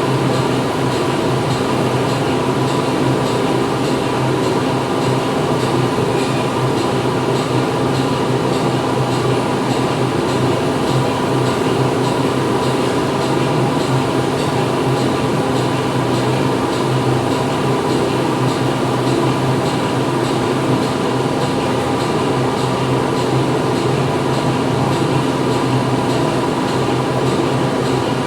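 Factory floor ambience: machinery running steadily, a dense even noise with several constant hums and a faint fast ticking in the highs.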